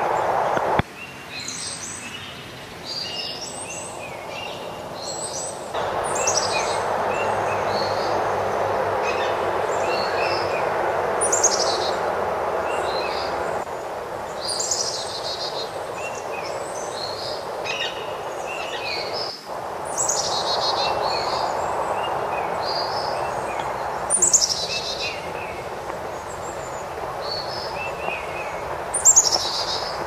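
Songbirds singing and calling, with high, quickly falling whistled notes every few seconds among shorter chirps, over a steady rushing background noise that drops away and comes back abruptly a few times.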